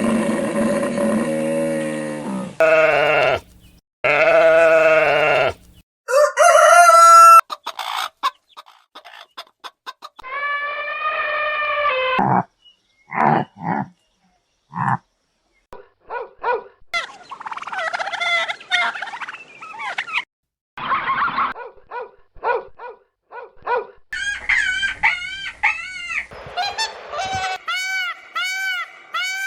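A string of short farm animal calls joined by abrupt cuts and brief silences, chiefly chickens clucking and a rooster crowing.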